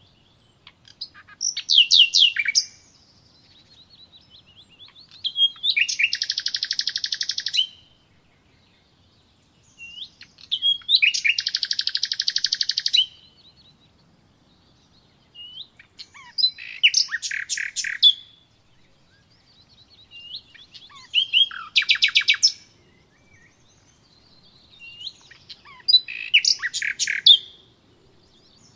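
A songbird singing in separate phrases about every five seconds, each made of quick chirps and rapid trills. Two of the phrases are long, dense trills lasting about two seconds.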